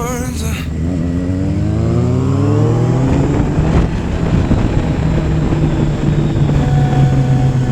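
Inline-four sport motorcycle engine accelerating, its note rising steadily for a couple of seconds, then holding a steady pitch as it cruises.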